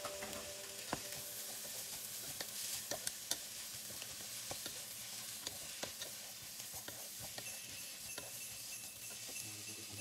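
Shredded cabbage and carrots sizzling in a pot while a wooden spatula stirs them, with scattered light scrapes and taps of the spatula against the pan.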